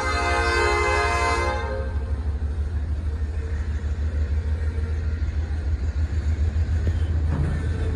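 A freight train's diesel locomotive air horn sounds a steady chord and cuts off about a second and a half in. After that comes the deep, steady rumble of freight cars rolling past. Near the end, wheels clack over the rail joints.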